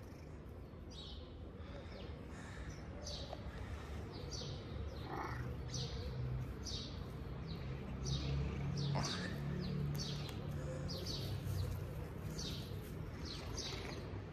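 Small birds chirping over and over, short high notes every half second or so, with a low rumble underneath that grows louder through the middle.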